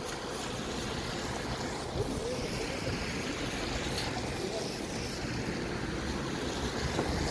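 City traffic ambience: a steady wash of road noise with a low rumble, with no single vehicle standing out.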